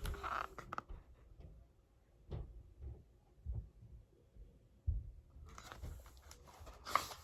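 Faint handling noises from a book being held and its page turned: a few soft knocks, then a short rustle near the end.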